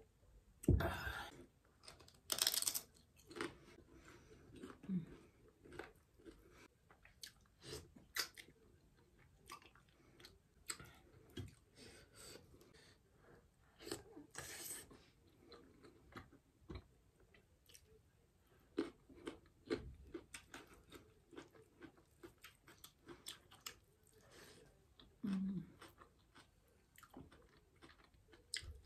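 A person chewing food close to the microphone, eating with the fingers: irregular wet mouth clicks and bites throughout, with occasional louder crunches.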